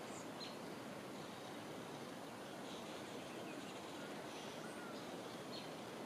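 Steady background hiss of the outdoors with a few faint, short bird chirps and a thin wavering whistle scattered through it.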